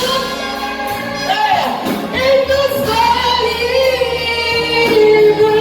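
Live gospel song: a singer holds long, gliding notes without clear words over steady instrumental accompaniment.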